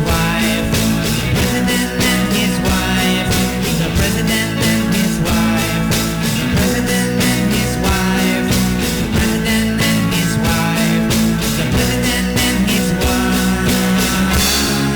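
Rock music: an instrumental passage with a steady drum beat under sustained guitar and bass.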